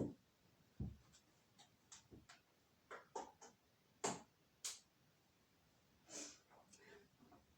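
Faint, scattered clicks and knocks from a Shark vacuum cleaner being handled and its power cord plugged in, with the motor still off.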